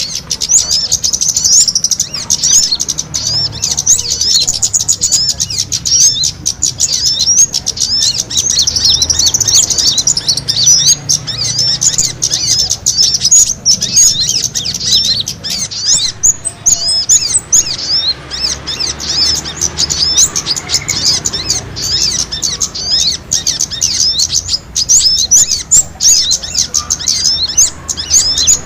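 Many small birds chirping rapidly and densely, high-pitched calls overlapping without pause: a bird-trapping lure recording of small birds squabbling.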